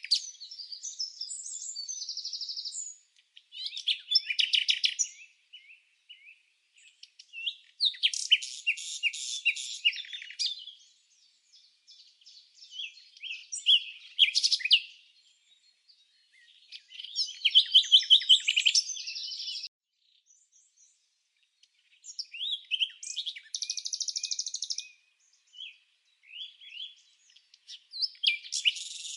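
Small songbirds chirping and trilling in short high phrases, each a second or two long, with gaps of near silence between them and some phrases made of fast repeated notes.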